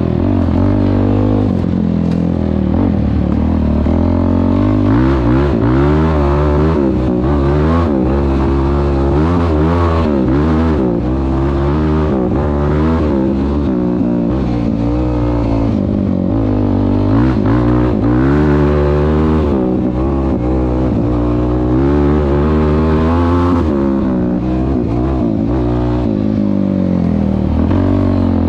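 Yamaha YFZ450R quad's single-cylinder four-stroke engine through a Rossier R5 aftermarket exhaust, revving up and down again and again as it is ridden.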